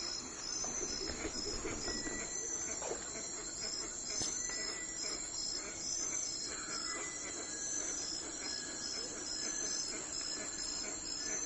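Insects chirping in an early-morning ambience, short high chirps repeating at an even pace over a steady background hiss.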